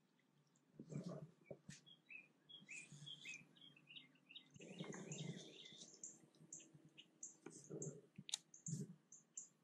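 Birds chirping faintly in many short high calls, with a few soft knocks and rustles about one, five, eight and nine seconds in.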